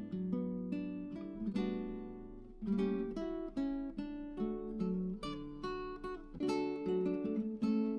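Background music played on acoustic guitar: plucked and strummed chords with a melody line, no voices.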